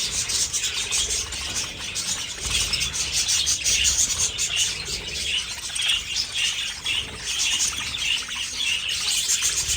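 A flock of budgerigars chattering and chirping all at once, a dense, unbroken stream of short high calls.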